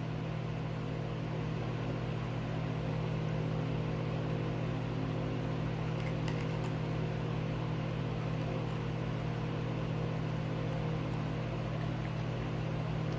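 Steady low hum of a small motor running, unchanging throughout, with a couple of faint clicks about six seconds in.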